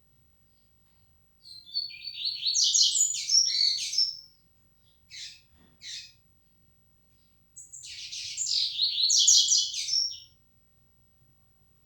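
A coleiro, a Sporophila seedeater, singing two fast, chattering song phrases of about two and a half seconds each, with two short single notes in the pause between them.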